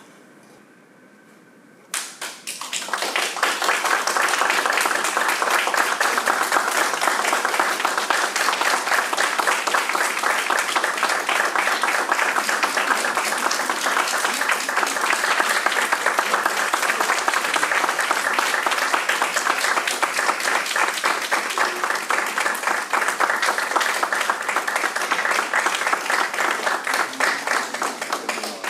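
Audience applauding: it breaks out suddenly about two seconds in and holds steady as dense clapping.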